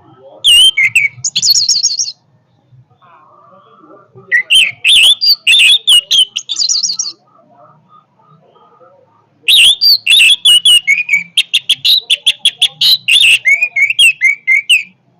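Orange-headed thrush (anis merah) singing loudly in three bursts of fast, varied, high phrases. The last burst is a long run of quick repeated notes.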